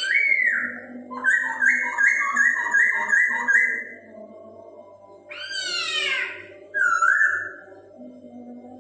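Poksay Hongkong (black-throated laughingthrush) singing: a rising-then-falling whistle, then a quick run of about eight repeated two-note calls, then a loud call that sweeps downward and a short whistled call near the end. A steady low drone runs underneath.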